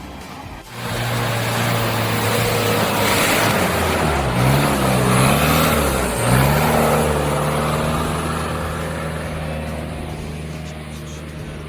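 Off-road 4x4 engine running under load, its revs dipping and rising a couple of times near the middle, over a loud rushing hiss that swells in the middle and fades toward the end.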